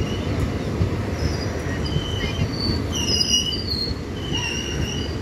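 Indian Railways passenger coaches rolling past, a steady low rumble of wheels on rails with short high-pitched squeals from the wheels several times, the loudest about three seconds in.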